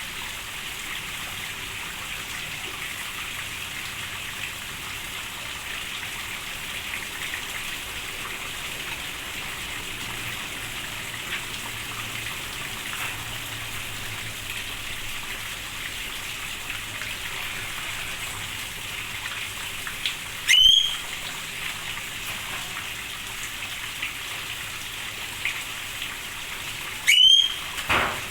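Steady rain falling, with two short, loud, upward-sweeping bird calls about seven seconds apart near the end.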